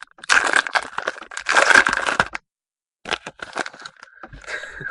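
Foil trading-card pack wrapper crinkling and tearing as it is opened. There are about two seconds of dense crackle, the sound cuts out completely for about half a second, and then lighter crinkling follows.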